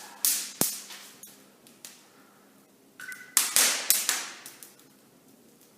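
Paper and kindling fire catching in a newly built brick fireplace's firebox, crackling with a few sharp pops and short rushing flare-ups; the loudest is about three and a half seconds in.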